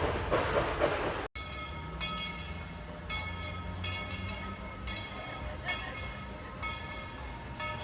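Steam train at Tweetsie Railroad: a pulsing rush of steam hiss, then after an abrupt break about a second in, a bell ringing roughly once a second over a low rumble.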